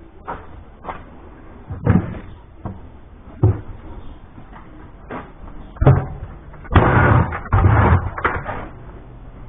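A series of sharp knocks and clanks of hard objects being handled, with single knocks about two, three and a half and six seconds in. They are followed by a longer rough clatter or scrape lasting about a second and a half, from about seven seconds in.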